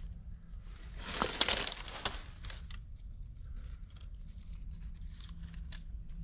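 Footsteps crunching and rustling through dry leaves and twigs, loudest about a second in, then lighter scattered crackles.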